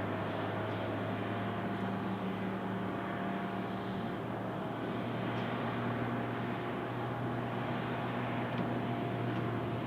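Airbus A350-900 on the ground, a steady mechanical hum with several held tones, one low and some higher, over an even rushing noise. The tones shift slightly about four seconds in.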